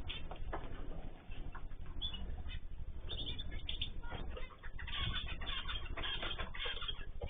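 Small cage birds chirping and calling together in an aviary: many short, overlapping high calls that grow busier about halfway through.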